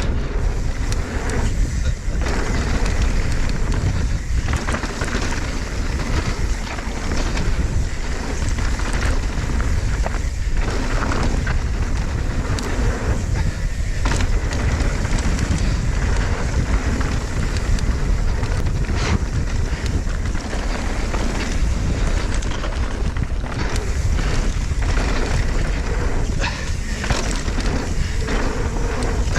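Wind rushing over the camera microphone as a mountain bike rides downhill fast, with the tyres running over dirt and rocks and many short knocks and rattles from the bike over bumps.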